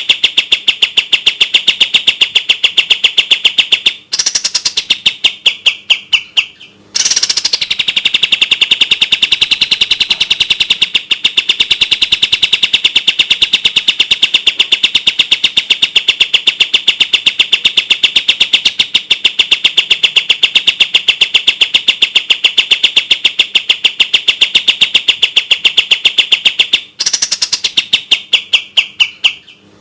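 Kapas tembak songbird singing a long, rapid run of fast-repeated high notes. Twice, about four seconds in and again near the end, the run slows and falls in pitch, then breaks off in a short pause before starting again at full speed.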